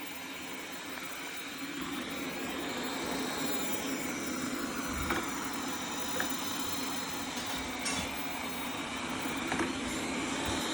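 Tikom L8000 Pro robot vacuum running steadily as it cleans, its motor and brushes giving a continuous whirring hum, with a few light knocks along the way.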